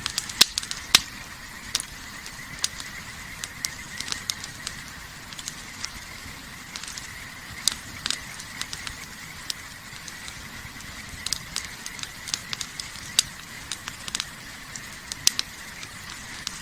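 Wood campfire crackling, with irregular sharp pops and snaps, over a steady high-pitched drone.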